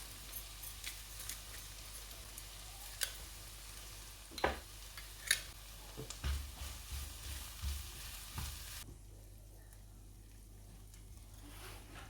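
Food sizzling in a frying pan, with a utensil stirring and a few sharp taps and scrapes against the pan. The sizzle cuts off suddenly about three-quarters of the way through.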